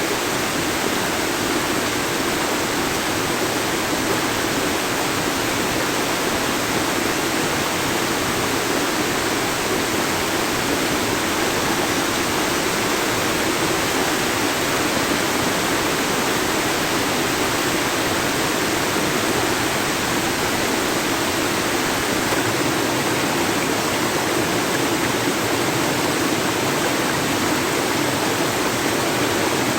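A river's water rushing steadily, an even hiss with no breaks.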